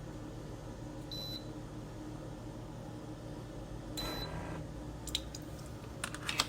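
Two short high beeps about three seconds apart, typical of a single-serve coffee maker's control panel, over a steady low hum, then a few light clicks near the end.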